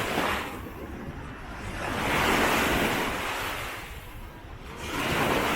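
Small Mediterranean waves breaking and washing up a sandy shore, the surf swelling and fading about every two and a half seconds.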